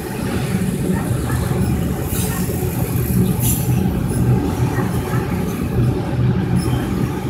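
Autorack freight cars rolling past close by: a steady, loud rumble of steel wheels on the rails, with two brief higher-pitched noises about two and three and a half seconds in.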